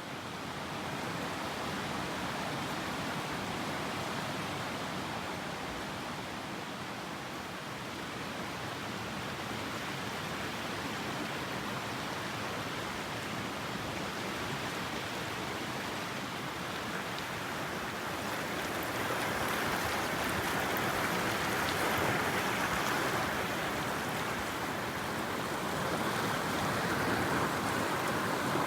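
Mountain stream rushing steadily over rocks, a little louder in the second half.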